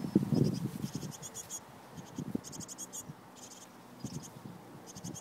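High, very rapid twittering calls from small birds in a wooden nest box, coming in short bursts several times, over scratching and rustling that is loudest in about the first second.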